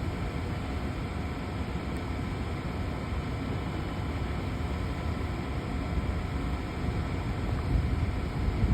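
Cargo jet's engines on its landing at the airport: a steady rumble and hiss with faint steady whining tones, the low rumble swelling near the end.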